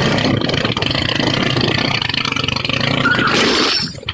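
A vehicle engine running under loud rushing noise; the noise swells to a bright hiss about three seconds in, then drops away near the end.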